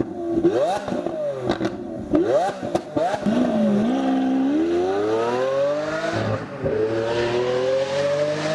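Lamborghini Aventador S's naturally aspirated V12 revving in several quick sharp blips with short cracks between them, then pulling in a long rising rev. There is an upshift about six seconds in, and a second rising pull after it.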